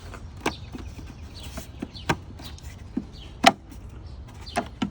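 Plastic air-intake housing parts being slid and pressed back into place by hand: about six sharp plastic knocks and clicks, the loudest about three and a half seconds in.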